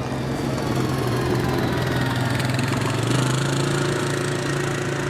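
Four-wheeler (ATV) engine running steadily; its note rises slightly about three seconds in.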